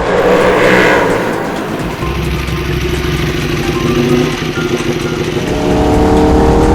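Ducati Desmosedici RR's V4 engine being ridden hard, with a loud surge in the first second and the revs climbing steadily near the end as it accelerates.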